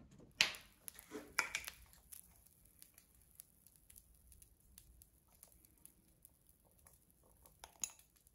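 Small objects being handled: light clicks, taps and short rustles, a cluster in the first two seconds, scattered faint ticks after, and one more sharp click near the end.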